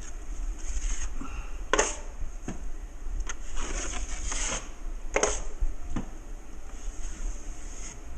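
Metal drywall knife clinking against a mud pan and scraping hot-mud joint compound during a skim coat: several sharp clinks, with a longer scrape about three and a half seconds in.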